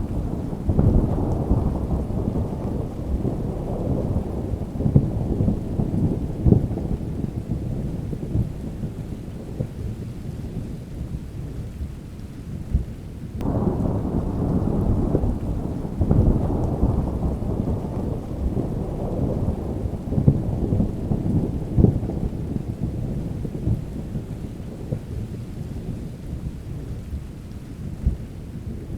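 Rolling thunder over steady rain, in two long rumbles: the second starts suddenly about 13 seconds in and then slowly fades.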